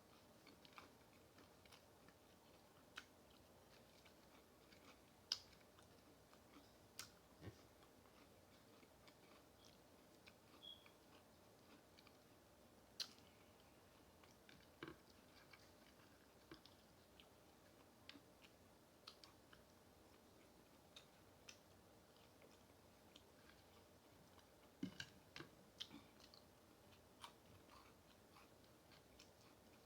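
Faint close-up chewing of fried chicken, with scattered soft clicks and crunches of the mouth and food, a little busier near the end.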